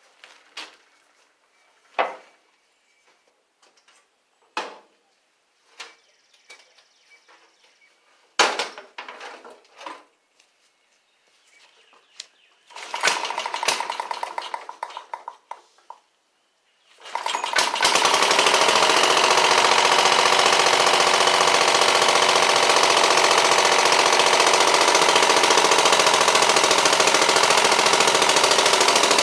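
1950s Garden All garden tractor engine, cold start: a scatter of clicks and knocks while it is readied, a brief first start attempt of about three seconds that dies, then about seventeen seconds in the engine catches and runs on steadily with a rapid, hard popping beat.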